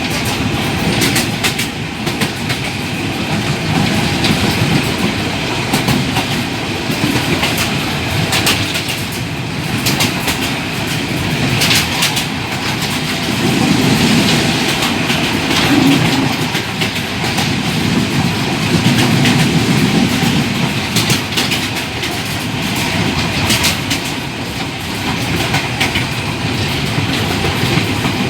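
Old passenger train running along the track: a steady rumble of the cars with irregular clicks and knocks from the wheels on the rails.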